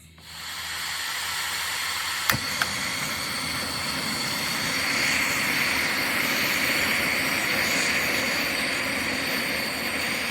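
Portable propane heater's burner running on high: a steady gas hiss, with two light clicks a little over two seconds in.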